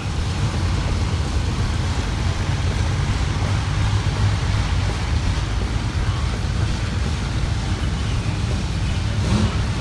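Pulling vehicle's engine running, a loud steady low rumble with a noisy haze over it.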